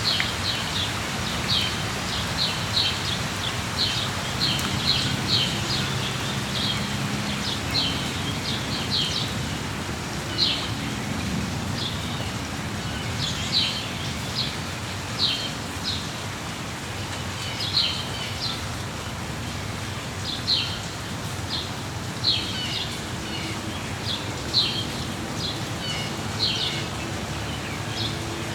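Small birds chirping in short, repeated notes over the steady hiss of falling rain. The chirps come thickly at first, then more sparsely, a second or two apart.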